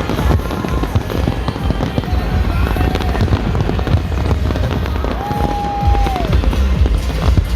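Fireworks display: many rapid bangs and crackles over a continuous low rumble, mixed with music.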